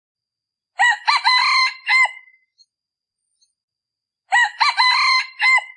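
Male decoy junglefowl cock crowing twice, each crow short and broken into a few clipped notes, the second about three seconds after the first.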